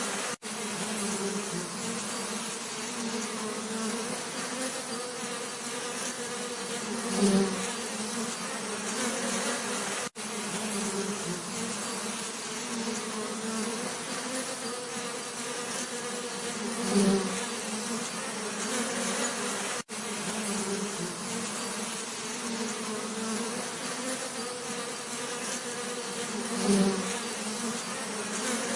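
Bees buzzing in a steady, low drone. It swells louder for a moment three times, about ten seconds apart, and drops out for an instant three times.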